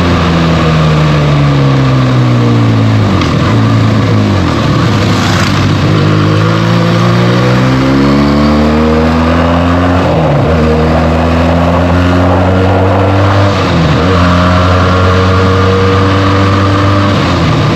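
Benelli TNT 300's 300 cc parallel-twin engine through its stock exhaust while riding. Engine speed falls for about four seconds as the bike slows, then climbs again. Two quick upshifts come about ten and fourteen seconds in, each a sudden drop in pitch, before the engine settles to a steady cruise.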